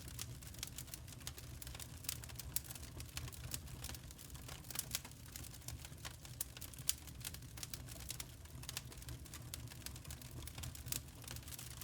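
Firewood burning: dense, irregular sharp crackles and pops over a low, steady rumble.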